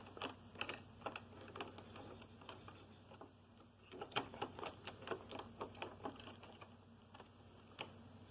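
Faint, irregular clicks and taps of plastic parts being handled, likely the broken drive-control switch and housing of a Hoover Concept One upright vacuum, with its motor off. The clicks cluster around the middle and thin out towards the end.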